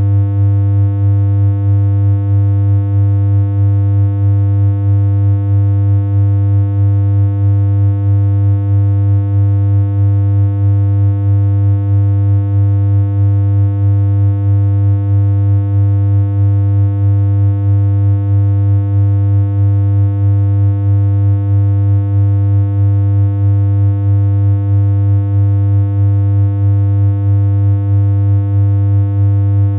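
Steady synthesized electronic hum: a low droning tone with a stack of higher overtones that never changes pitch, with a slight regular pulse in level.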